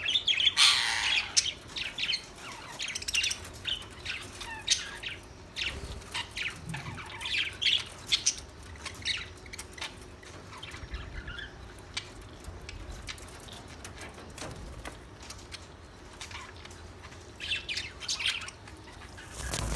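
Budgerigars chirping and squawking in quick short calls, busiest in the first couple of seconds, then scattered, with another flurry near the end.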